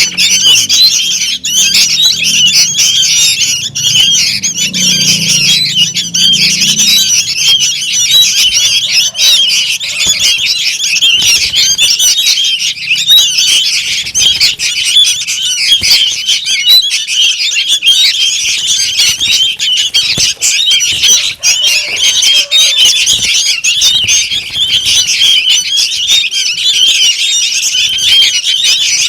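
A crowd of young sooty-headed bulbuls giving loud, dense, unbroken chattering and begging calls, many birds at once. This is the kind of recording used as a lure to draw bulbuls in.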